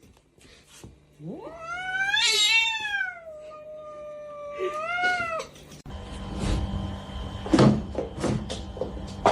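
A cat's long, drawn-out yowl that rises, holds and then falls away over about four seconds. About six seconds in, the sound cuts to a noisier scene with a steady hum and several sharp knocks.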